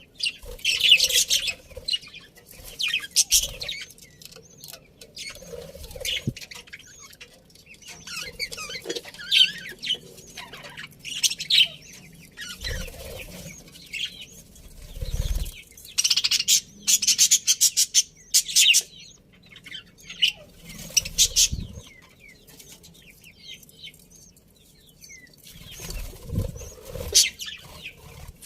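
A colony of budgerigars chirping and chattering in repeated high-pitched bursts, with wing flapping and a few low thumps.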